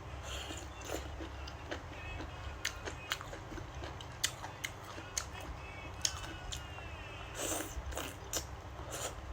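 A person chewing and biting food, with a few short sharp clicks scattered through.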